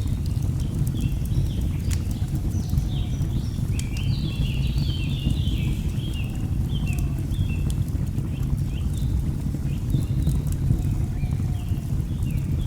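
Steady low rushing of a waterfall with many short, quick bird chirps over it, busiest around four to six seconds in, and occasional sharp crackles of a log fire.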